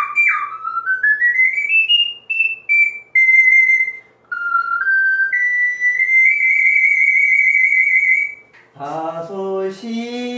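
Soprano C ocarina playing a quick stepwise run climbing into its high register, a few short notes, then a long high note held with a slight vibrato. A man's voice follows near the end.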